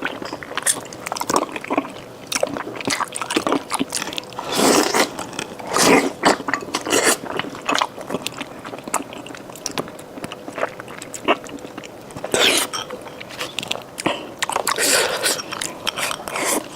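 Close-up chewing and lip-smacking while eating a pig's trotter: an irregular run of short wet bites and smacks.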